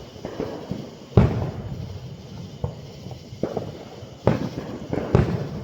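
Fireworks shells bursting: a loud boom about a second in, a few smaller bangs in the middle, and two more strong booms near the end, each trailing off as it rings out.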